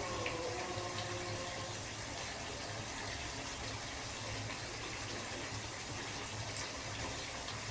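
Water running steadily from a kitchen tap, with a single light click near the end.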